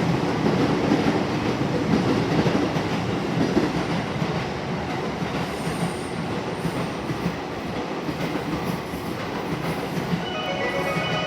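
Electric commuter train moving through the station, a steady rumble with wheel clatter on the rails. About ten seconds in, a chiming station departure melody starts over it.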